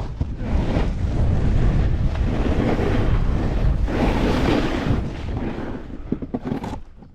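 Wind buffeting a GoPro's microphone during a snowboard run, with the board sliding over snow, dying away in the last second or so.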